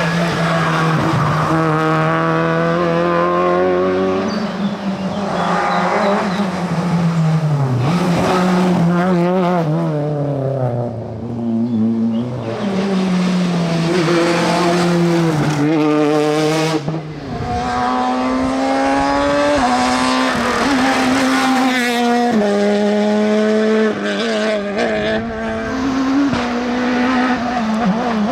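Rally car engines at full throttle on a stage. The pitch climbs and then steps down again and again as the drivers shift gears, with brief lifts off the throttle about eleven and seventeen seconds in.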